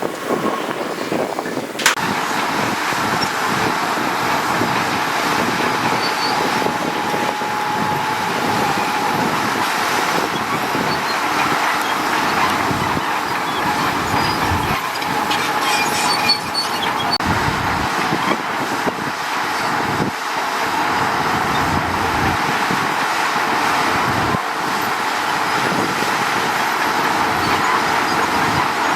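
Heavy diesel earthmoving machinery running steadily at work on a road site, with a continuous mechanical rumble and clatter.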